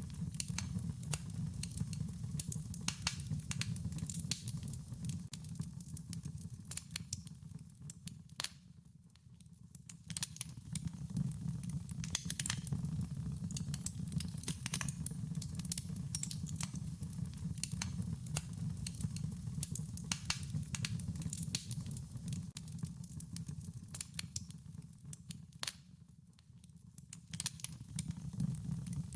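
Wood fire crackling: dense, irregular sharp pops and snaps over a steady low rumble of the burning fire. The sound dips briefly about a third of the way in and again near the end.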